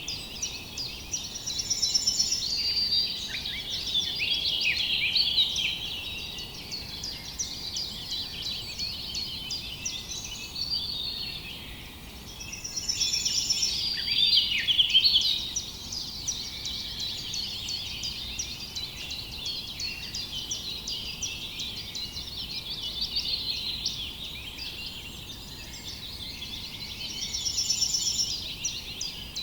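A chorus of small songbirds chirping and trilling, many overlapping calls, with a few louder stretches of song.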